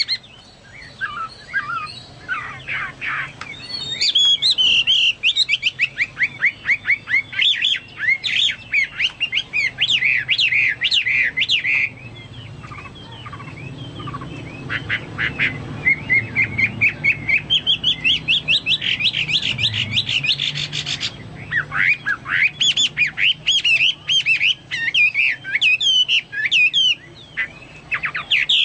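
Chinese hwamei singing vigorously, a long, varied song of rapid runs of repeated and gliding notes, with a short lull about twelve seconds in. Its phrases are likened to the song of a cucak Papua or cucak mas.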